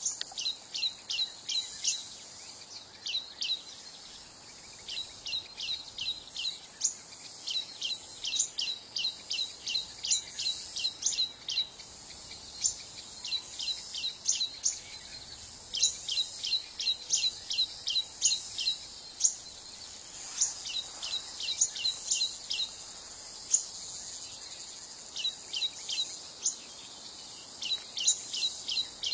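A bird calling in repeated runs of short, sharp, high chirps, several notes a second, the runs broken by brief pauses.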